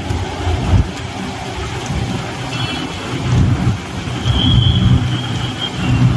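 Heavy rain falling on a road, with the low rumble of vehicles driving through it. A thin high tone sounds for about a second and a half past the middle.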